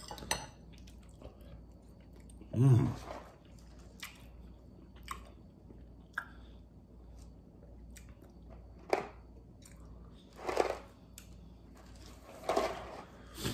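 A man quietly chewing a mouthful of Flamin' Hot mac and cheese, with a few light clicks of a fork against a glass bowl and a short low hum from his voice about three seconds in.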